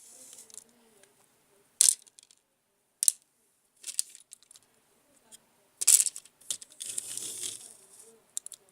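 Small hard objects being handled, clicking and clattering in a handful of separate knocks, with a short rustling, scraping patch near the end.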